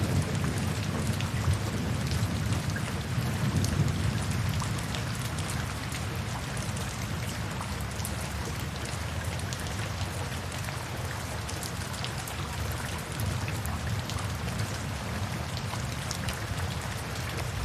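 Steady rain with a patter of drops. A low rumble of thunder dies away over the first five seconds or so.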